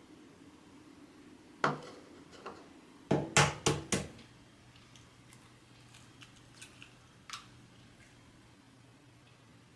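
Kitchenware knocking while cake batter or crumble is being prepared: one sharp knock, then a quick run of four or five louder knocks about three seconds in, followed by a few light clicks. A faint steady hum starts about four seconds in.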